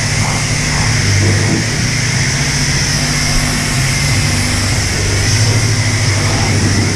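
Self-service car wash pressure wand spraying, a steady hiss over a low, pulsing motor hum.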